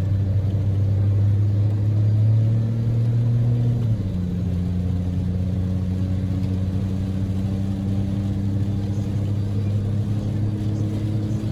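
Daihatsu Move L150S's 660 cc three-cylinder EF-VE engine droning under way, heard from inside the car. The engine note climbs slightly, then drops to a lower, steady pitch about four seconds in.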